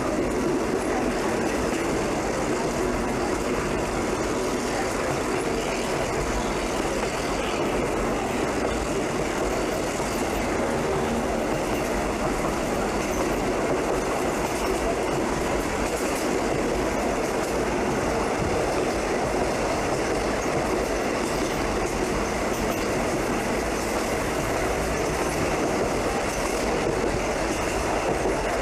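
Passenger train running steadily, a continuous rumble and rattle of wheels on the rails.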